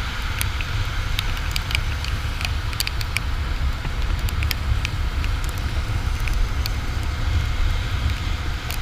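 Riding wind buffeting the microphone on a Kawasaki Ninja 400 at road speed: a steady heavy low rumble, with scattered short sharp ticks throughout.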